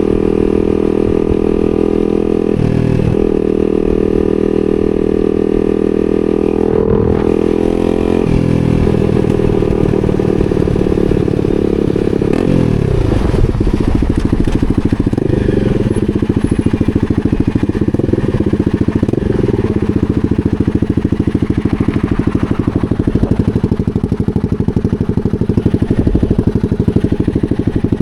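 250 cc supermoto motorcycle engine under way, holding steady revs with two brief dips in the first eight seconds. The revs then drop sharply and rise and fall several times as the rider rolls off and accelerates again.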